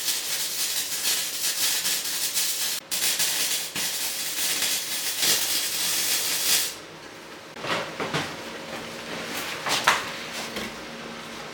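Electric welding arc hissing and crackling while welding the exhaust pipe. It runs for about seven seconds, with one brief break near the three-second mark, then stops, and a few short clatters follow.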